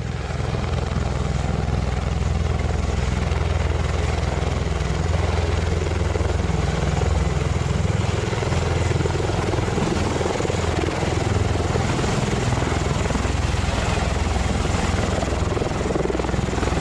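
Rotorcraft rotors and turbine engines running steadily and close by: a continuous low hum with a rushing noise over it.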